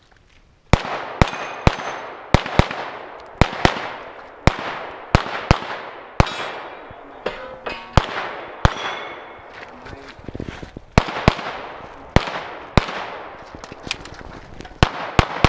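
Pistol shots fired in quick strings during a timed competition stage, about two dozen in all, often in fast pairs. There is a short break in the firing about two-thirds of the way through, then the shooting picks up again.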